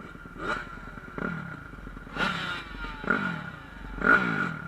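Dirt bike engines revving in short bursts, about five times, each rising in pitch and then falling away.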